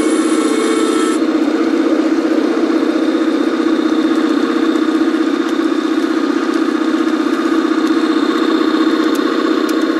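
Garden-scale model diesel railcar running on the track: a steady, unbroken engine-like drone.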